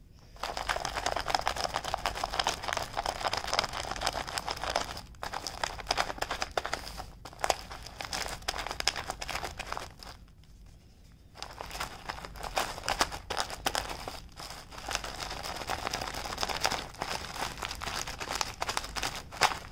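A tissue scrubbing hard against a plastic surface to rub off printed lettering: rapid scratchy rubbing with tissue crinkling, stopping for about a second and a half midway, then starting again.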